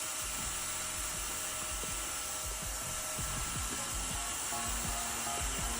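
A steady hiss with irregular low thuds underneath, and faint short musical notes coming in near the end.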